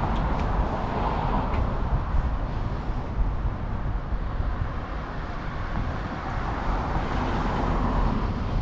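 Steady low rumble of wind on the microphone mixed with city traffic noise, picked up while riding a bicycle.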